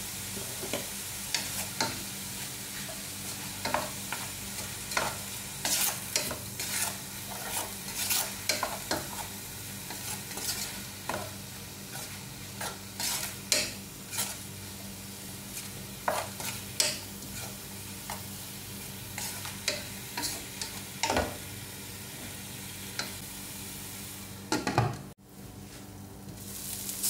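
Lobster balls and onions sizzling in oil in a nonstick wok while a wooden spatula stirs them, scraping and knocking against the pan many times. Near the end a glass lid is set on with a knock and the sizzle goes muffled and quieter.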